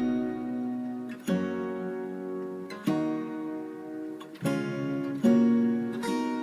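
Background music: an acoustic guitar strumming chords, five strums a second or so apart, each chord left to ring out.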